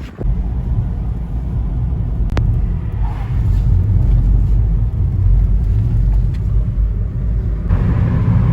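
Car being driven, heard from inside the cabin: a steady low rumble of road and engine.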